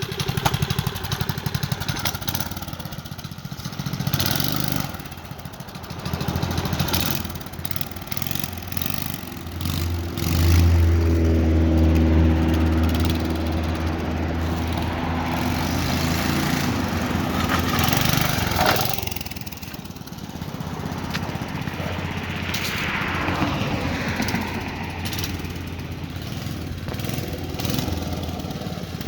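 1971 Skat Cat mini bike's small Tecumseh engine running as the bike rides a loop, its pitch rising and falling with the throttle. It is loudest and steadiest through the middle, from about ten seconds in to about nineteen, then drops back.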